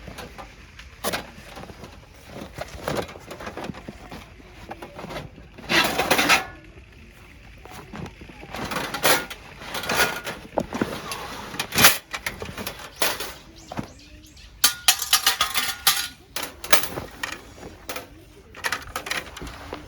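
Snow Peak Takibidai stainless-steel fire pit being unpacked and handled: irregular metallic clinks and clatters, with a busier run of clanks about two thirds of the way in.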